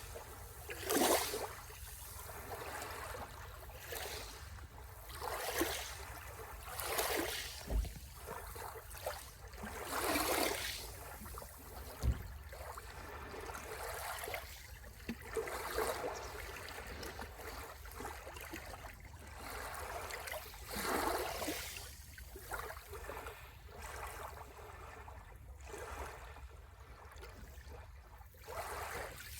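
Small sea waves washing onto the shore, swelling and falling away every few seconds over a steady low rumble. Two short low thumps come near the middle.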